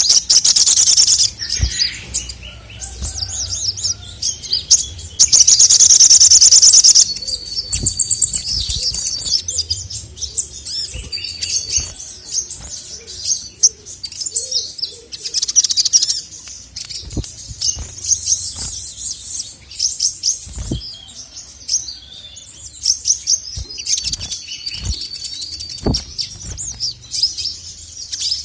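Male sogon (sogok ontong), a small sunbird-like songbird, singing rapid high chirping phrases in repeated bursts, with one long loud burst about five seconds in.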